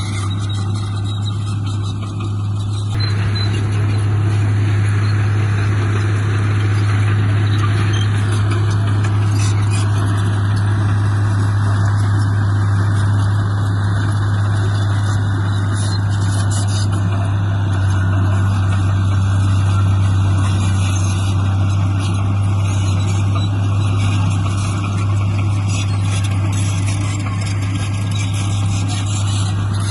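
Heavy diesel construction machinery running steadily under load with a deep, constant engine drone, growing louder about three seconds in.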